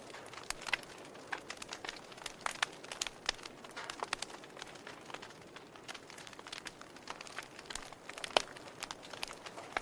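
Wood fire in a fireplace crackling, with irregular sharp pops and snaps over a soft steady hiss. One louder pop comes near the end.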